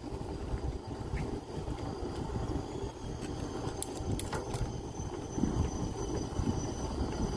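Natural ambience of steady high-pitched insect calls holding several constant tones, over a low rumble. A few sharp clicks come about four seconds in.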